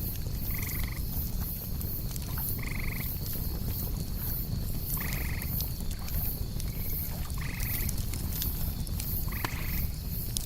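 Night ambience of a campfire crackling with occasional sharp pops over a low rumble, crickets chirping steadily, and an animal giving a short trilled call five times, about every two seconds.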